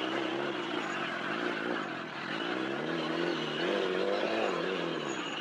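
A motorcycle engine running under varying throttle, its pitch wavering up and down, dipping about two seconds in, then climbing again and easing off near the end.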